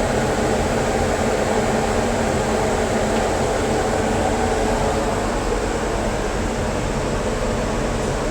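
TIG welding arc burning steadily under argon shielding gas: a continuous crackling hiss with no break.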